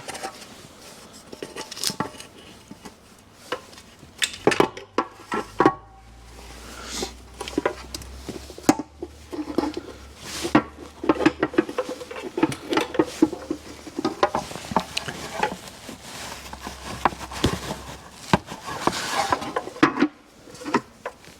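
Metal hand tools and parts clinking and tapping irregularly while an engine's intake manifold is reassembled and bolted down.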